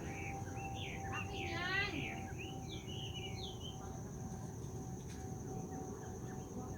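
Birds chirping in short varied calls, with a quick run of repeated notes just before two seconds in, over a steady high-pitched insect drone and a low background rush.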